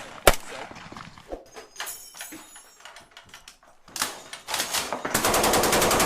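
Small-arms gunfire. A single sharp shot comes just after the start and a few scattered shots come around four seconds in, then a rapid burst of automatic fire fills the last second and is the loudest part.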